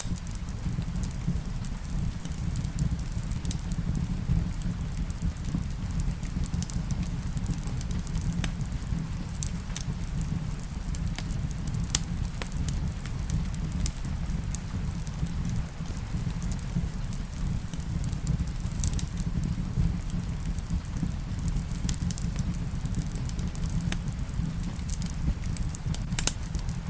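Wood fire in a fireplace crackling, with irregular sharp pops over a steady low rumble, with rain falling behind it.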